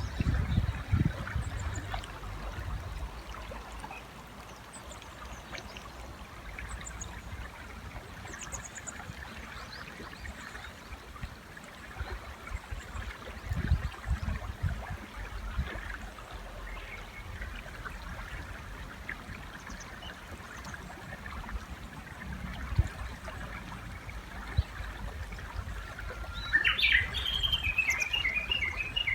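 River water flowing steadily, with faint high chirps of small birds and a few low thumps. Near the end a Japanese bush warbler calls loudly: a held note sweeping upward, then a rapid run of repeated notes.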